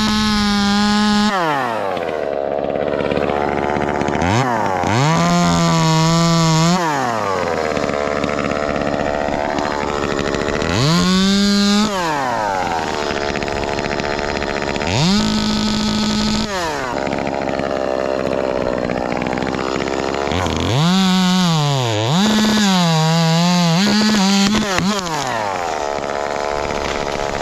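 Ported Echo 2511T two-stroke top-handle chainsaw revving to full throttle again and again, each burst held for a second or two and then dropping back to idle, with three quick blips a little over 20 seconds in.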